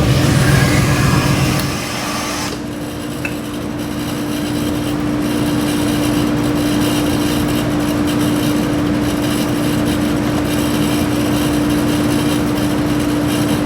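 Chrysler 408 stroker small-block V8 running at a steady speed on an engine dyno, a loud, even tone. It is louder and rougher for the first two seconds or so, then settles.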